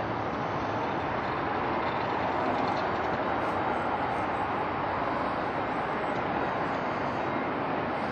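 Jet airliner engines running, a steady, unbroken rush of noise.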